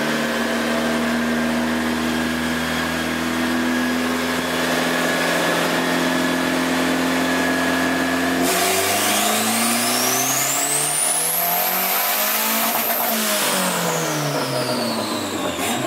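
Turbocharged Honda B20V inline-four of an Integra on a chassis dyno: the engine holds steady revs for about eight seconds, then makes a full-throttle pull, its pitch climbing fast with a high whine rising alongside, and the revs fall away over the last few seconds as the pull ends.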